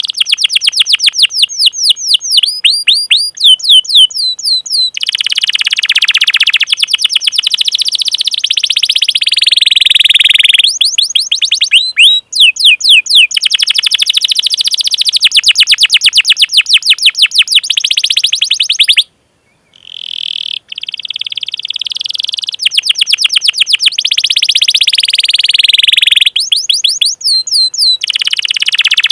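Domestic canary singing at full length: fast runs of repeated high 'cuit cuit' chirps alternating with long rolling trills ('ngerol'). The song breaks off briefly about nineteen seconds in, then resumes.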